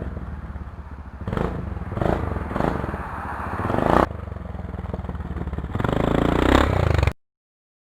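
Polaris Sportsman 500 ATV's single-cylinder engine running through an aftermarket muffler, revved in several short throttle blips and one longer rev near the end, then stopping suddenly.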